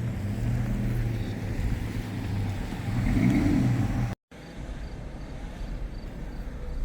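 Car engine and road noise heard from inside the moving car, with a brief rise in engine pitch about three seconds in. The sound cuts out for an instant just after four seconds.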